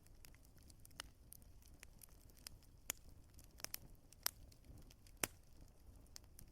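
Wood fire crackling in a fireplace: irregular sharp pops and snaps over a low, steady rumble, the loudest pops about three, four and five seconds in.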